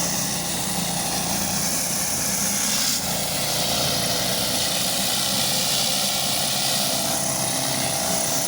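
Pressure washer engine running steadily with the hiss of the water spray. The hiss weakens about three seconds in and builds again near the end.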